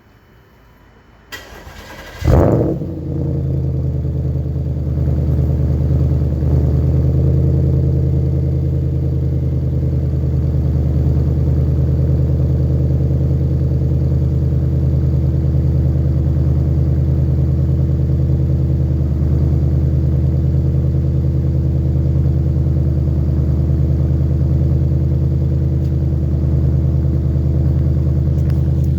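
Cold start of a 2009 Audi S5's 4.2-litre V8 fitted with an Eaton M90 supercharger: the starter cranks briefly about a second in, the engine catches with a short loud rev flare, then settles into a steady idle that stays pretty tame.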